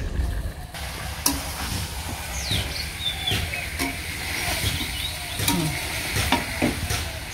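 Marinated chicken pieces frying in hot mustard oil, sizzling steadily as they are stirred, with a few sharp knocks of the spatula against the pot.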